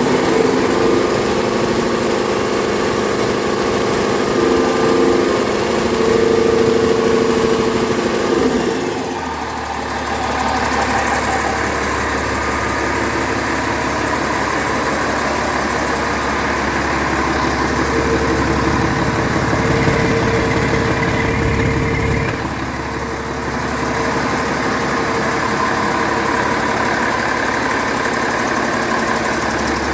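1998 Cummins ISC 8.3-litre inline-six diesel running on a test run. It has a higher, busier note for the first nine seconds or so, then settles into a lower steady running sound, with a brief dip in level around 22 seconds.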